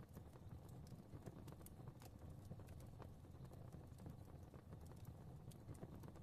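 Faint fireplace fire crackling: irregular small pops and snaps over a low steady rumble of flames.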